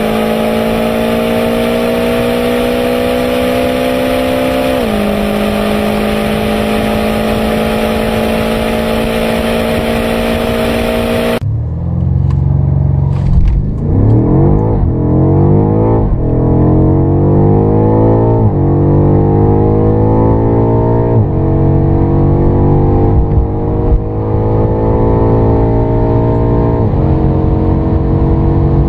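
BMW M5 accelerating hard at full throttle, the engine note climbing with one upshift. About eleven seconds in it cuts to another BMW M5 launching from low revs, its engine rising and dropping back with each of about six upshifts.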